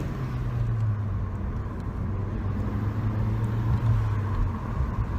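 Car engine pulling hard under acceleration, heard from inside the cabin, with steady road noise.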